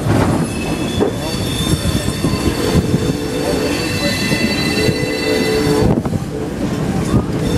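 Train car rolling on the rails with a low rumble, and a steady high-pitched wheel squeal that sets in about a second in and fades near six seconds.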